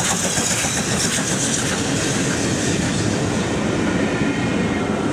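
Steam-hauled passenger train, 70013 Oliver Cromwell (a BR Standard Class 7 'Britannia' Pacific) and its carriages, passing close by over a level crossing. It makes a loud, steady rush with the wheels clattering on the rails.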